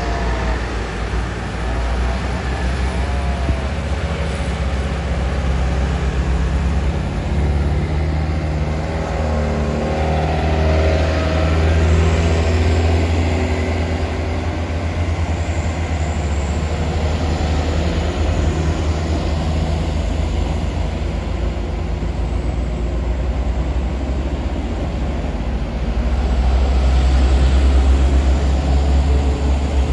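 Heavy truck engine running under load on an uphill climb, a continuous low rumble with its pitch shifting at times, growing louder near the end.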